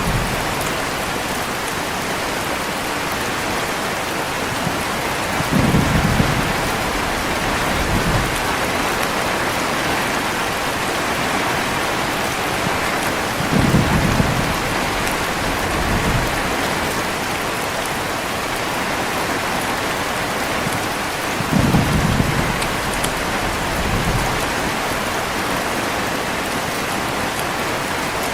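Heavy, steady rain with low thunder rumbles coming three times, roughly every eight seconds, each followed by a fainter rumble a couple of seconds later.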